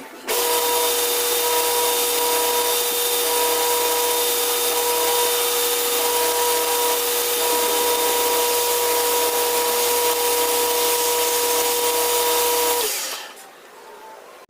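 A power tool running steadily with a high whine for about twelve seconds, then switching off and winding down near the end.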